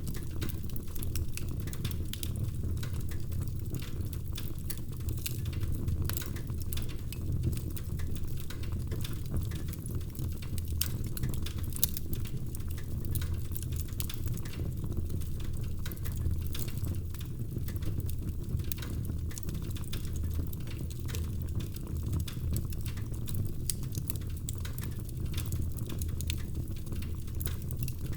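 Wood fire burning in a fireplace: a steady low rumble of the flames with frequent small sharp crackles and pops throughout.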